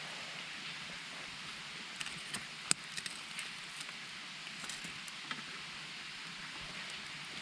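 A river runs in a steady rush, and a wood campfire crackles over it. From about two seconds in, the fire gives a scatter of sharp pops and snaps, the loudest about a third of the way through.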